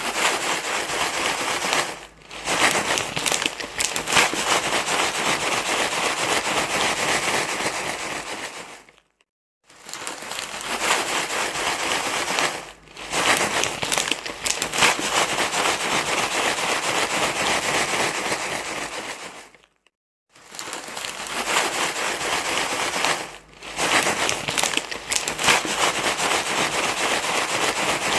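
Loud, continuous crinkling rustle in a repeating loop: stretches of about ten seconds broken by brief silences about nine and twenty seconds in, used as a baby-calming noise.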